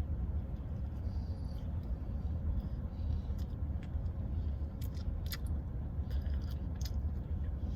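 Steady low rumble inside a car's cabin, with a few faint short clicks scattered through it.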